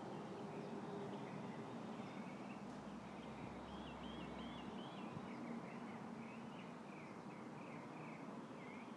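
Faint outdoor ambience: a songbird calling in a rapid series of short, high chirps, starting about three seconds in and carrying on to the end, over a steady hiss of light wind in the tree.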